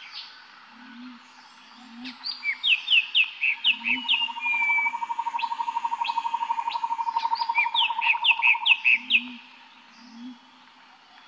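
Birds singing outdoors: clusters of quick, falling chirps. A fast trill is held for about five seconds in the middle, and a few short low notes sound under it.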